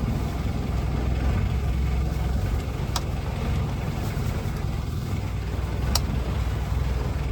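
A boat's engine running steadily with a low rumble. Two sharp clicks sound about three seconds apart.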